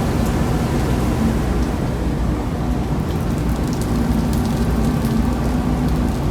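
Steady low engine drone with a constant hum, under a loud, even rushing noise.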